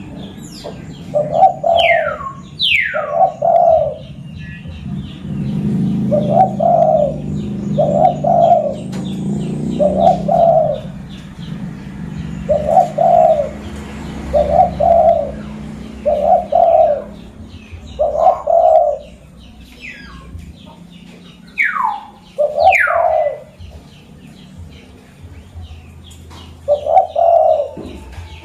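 Zebra dove (perkutut) calling its short trilled coos over and over, about a dozen phrases a second or two apart. Another bird's quick falling whistles come in twice, near the start and again past the middle, over a low background rumble that fades about two-thirds of the way through.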